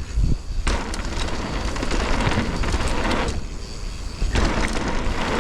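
Wind rumbling on a helmet- or body-mounted camera's microphone and tyres rolling over dirt as a mountain bike descends a trail, the noise coming in surges with a short lull about three seconds in.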